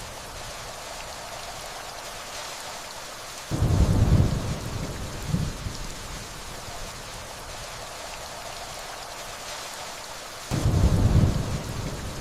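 Steady rainfall with distant thunder: two low rumbles of thunder roll in, one about three and a half seconds in and another near the end, each fading over a second or two.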